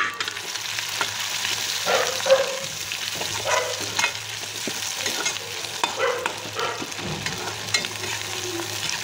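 Fish intestines frying in hot oil with sliced onions in a kadai, a steady sizzle, while a slotted metal spatula stirs them and scrapes against the pan every second or so.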